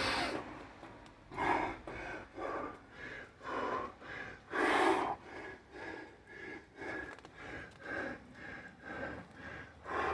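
A man breathing hard and fast after Navy SEAL burpees: quick rhythmic in-and-out breaths, about two a second, with one deeper, louder breath about five seconds in.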